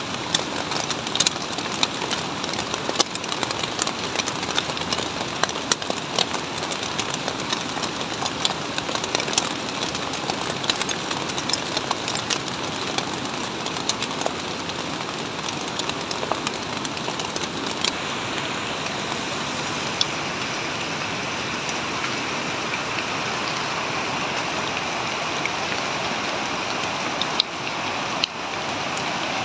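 Heavy rain falling, with a dense patter of drops striking plastic sheeting. Past the middle the sharp drop hits thin out, leaving a steadier hiss of rain.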